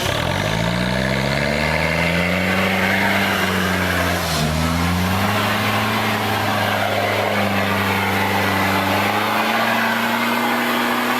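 Off-road 4x4 engine revving up and held at high revs under load, with a brief dip and recovery about four seconds in.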